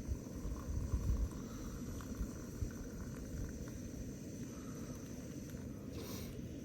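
Wind buffeting the microphone, a low rumble that swells in a gust about a second in, with a brief hiss near the end.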